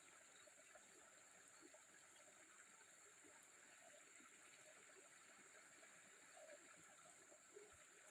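Near silence: a faint steady high-pitched hiss with faint small water sounds.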